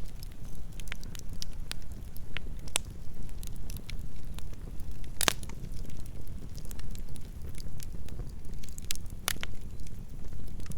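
Campfire burning: a steady low rumble of flames with irregular sharp crackles and pops of burning wood, two louder pops about five and nine seconds in.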